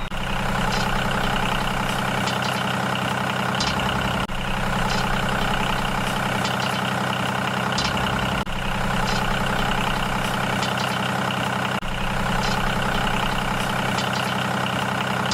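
Steady engine-like idling hum, an even drone with several tones, briefly dipping about every four seconds.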